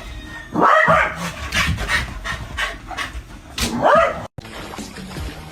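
A dog panting, with two short, high whines, one about half a second in and one near four seconds; the sound breaks off abruptly soon after the second.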